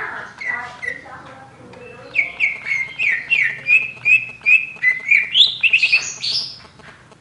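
Oriental magpie-robin (kacer) singing: a run of short, clear downward-slurred whistles, about three a second, then a quick burst of rising notes near the end before the song fades.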